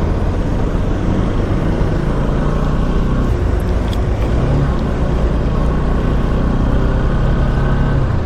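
Motorcycle on the move: its engine running steadily under a constant rush of wind noise at road speed.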